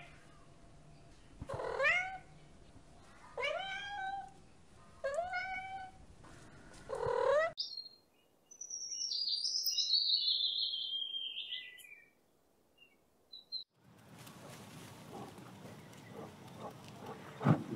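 A domestic tabby cat meowing four times, each meow rising in pitch, spaced less than two seconds apart. After a short gap comes a few seconds of high, chattering bird calls that slide downward, typical of a blue-winged kookaburra. Near the end there is a steady rustling haze with a few soft knocks.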